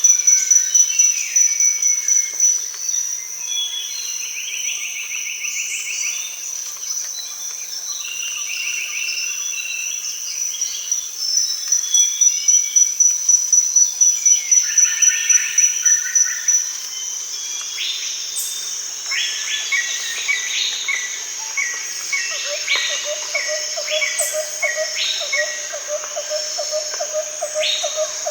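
Daytime rainforest chorus: a high, pulsing insect buzz runs throughout, under a mix of different bird calls and repeated chirping note series. A lower pulsing call joins near the end.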